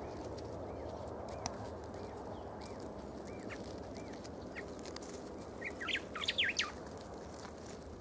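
Wild birds calling over a steady outdoor background hiss: a short arched note repeated about twice a second through the first half, then a louder quick burst of twittering about six seconds in.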